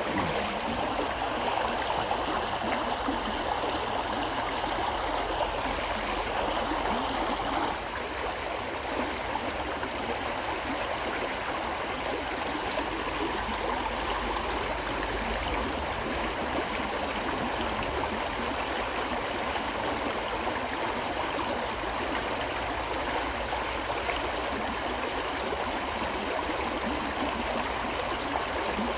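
River water flowing and gurgling over rocks in a steady rush, a little softer after about eight seconds.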